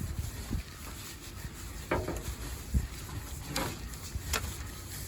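Fiberglass tent pole being fed through the tent's fabric sleeves: low rustling and rubbing with a few scattered light clicks and knocks.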